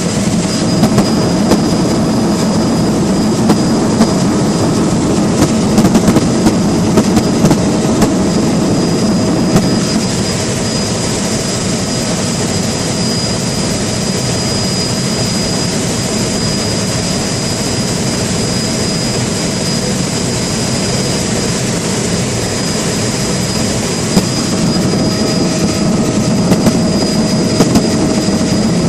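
Steady rumbling drone of a moving vehicle, with a faint constant whine above it and a few light clicks.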